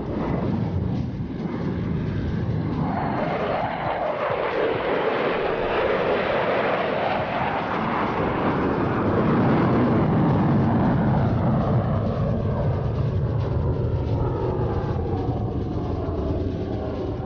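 F-35A Lightning II's single F135 turbofan engine roaring as the fighter flies past. The roar swells to its loudest about ten seconds in, then eases, with a sweeping shift in pitch as the jet goes by.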